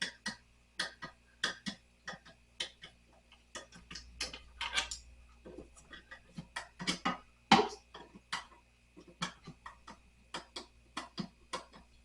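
Irregular small clicks and light knocks of screws, a screwdriver and fittings being worked while a nightstand is taken apart, about two or three a second, with one louder knock a little past halfway. A faint steady hum runs underneath.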